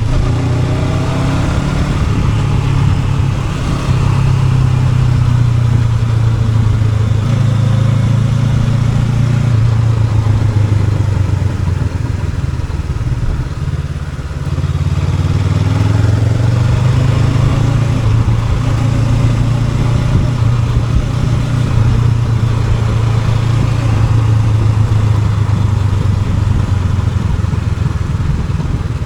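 Honda NX500's parallel-twin engine pulling steadily under way, with wind noise over it; the engine note eases off about halfway through and then builds again.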